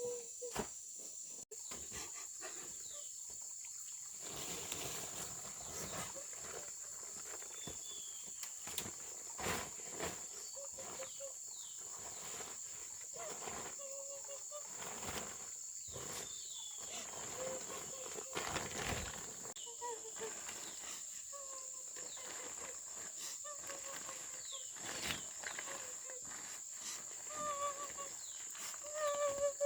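Steady high insect drone, with many short falling squeaks from an animal, more of them near the end, over scattered knocks and rustles of handling.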